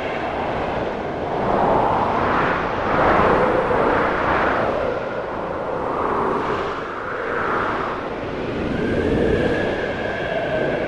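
Snowstorm wind blowing in gusts, swelling and easing every few seconds.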